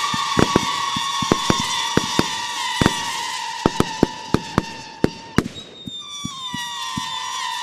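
Katan Special 4 firework battery firing: sharp bangs, about two or three a second, over long whistling tones. About halfway through the bangs thin out, and a fresh whistle starts and glides briefly downward.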